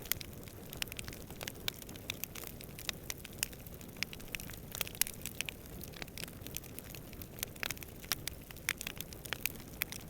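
Campfire burning with dense, irregular crackles and pops over a steady low rumble of flames and distant wind.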